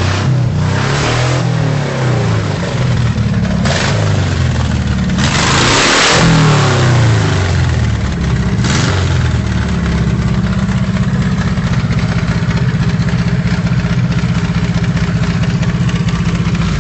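VW T3 flat-four engine running with no exhaust fitted, blipped up in about five short revs and then idling steadily from about ten seconds in.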